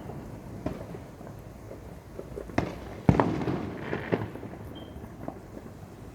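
Fireworks going off: a string of sharp bangs, the loudest about three seconds in, followed by a brief crackling wash.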